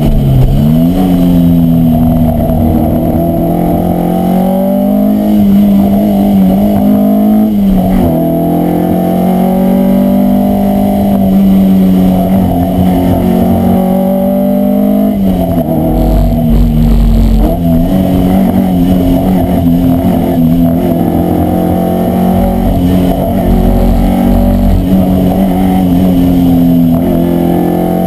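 Alpine A110 Berlinette's rear-mounted Renault four-cylinder engine, heard from inside the cabin, pulling hard up a hill climb: revs climb steadily, then fall sharply near the start, about 8 seconds in and about 15 seconds in as it slows for bends, before pulling again.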